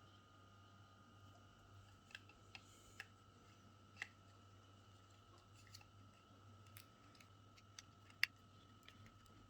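Faint, scattered small clicks and taps of hair-clipper parts being handled during disassembly, about eight in all, the sharpest a little after eight seconds in, over a faint steady hum.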